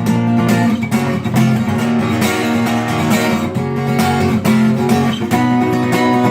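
Acoustic guitar strumming chords in a steady rhythm: the interlude played after the chorus, leading back into the song.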